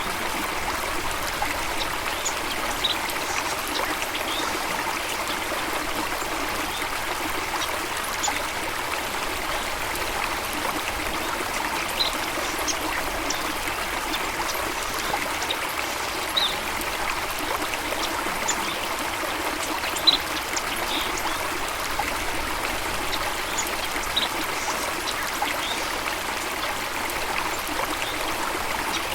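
Flowing stream or small waterfall, a steady rush and trickle of water, with a few brief, high bird chirps now and then.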